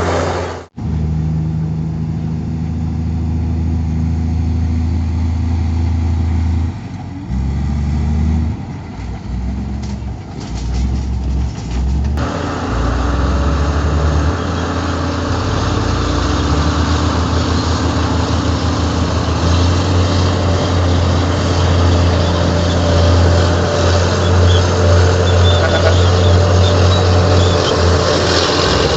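Heavy diesel earthmoving machinery running: a low engine drone that drops out for an instant under a second in, wavers in load for a few seconds, then runs fuller and noisier from about twelve seconds on.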